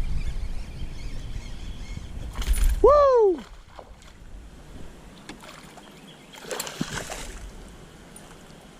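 Wind rumbling on the microphone over water noise around a canoe while a hooked bass is being fought. A shout of "Woo!" comes about three seconds in, and a short splash about seven seconds in.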